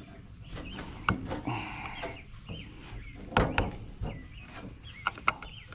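A few sharp clicks and light knocks from small metal parts and hand tools being handled. Under them runs a series of short, repeated chirps from an animal, possibly a bird or fowl.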